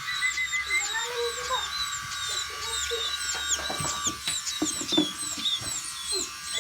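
A flock of emprit (munias) chirping constantly, with many short, quick, high chirps that hook downward. A few knocks sound near the middle.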